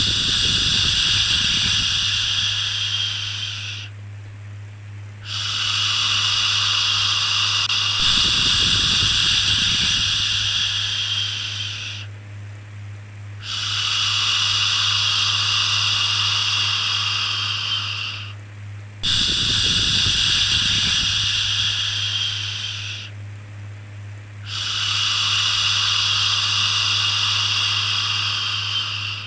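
A long, drawn-out 'shhh' shushing sound, repeated five times with short breaks between, each shush fading away at its end: the rhythmic shushing used to soothe a baby.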